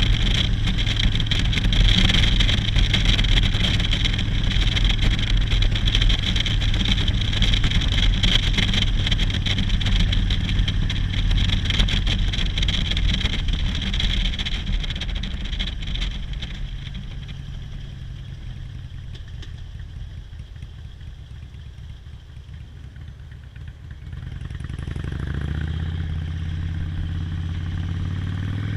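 Motorcycle riding, its engine drone mixed with a steady rush of wind noise. The sound dies away over several seconds past the middle. Near the end the engine picks up again, its pitch rising as it accelerates.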